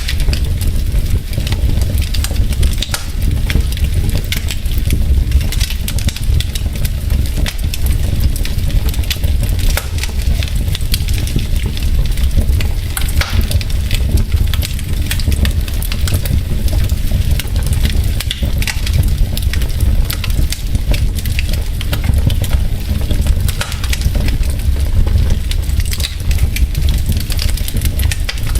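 Wood logs burning in a fireplace: a steady low rumble of the fire with frequent sharp crackles and pops from the burning wood.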